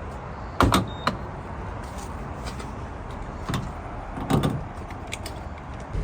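A few sharp knocks and clunks over a steady low rumble.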